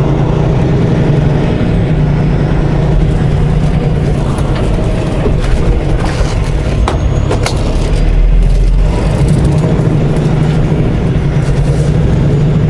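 Semi truck's diesel engine running with a steady low drone, heard from inside the cab while the truck moves slowly. A few sharp clicks and knocks come through in the middle.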